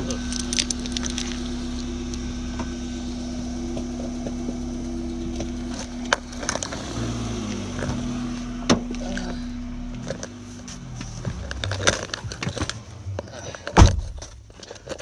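A car's engine running steadily, heard from inside the cabin, with the rustle and knocks of a phone being handled. A sharp knock comes about a second before the end.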